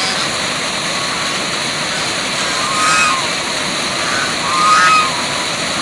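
Steady rushing of a waterfall, with two short pitched calls over it, about three and five seconds in.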